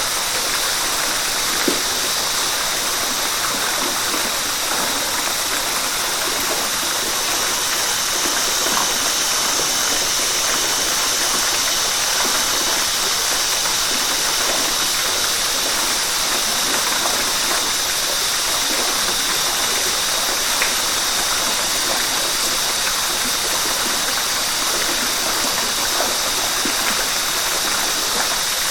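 River water rushing and splashing over rocks in a steady, unbroken hiss, with no pauses or single events.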